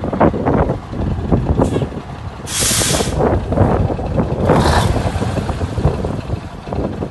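A 1980 Ford CL9000 semi truck's diesel engine running with a low, uneven rumble, while its air brake system lets out two sharp hisses of released air, the louder about two and a half seconds in and a shorter one about two seconds later.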